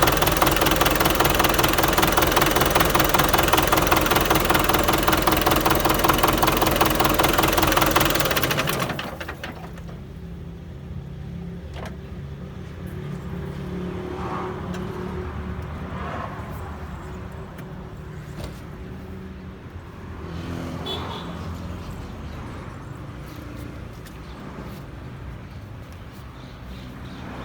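Belarus 510 tractor's diesel engine running loud and fast for about the first eight seconds, then dropping suddenly to a much quieter, steady running sound.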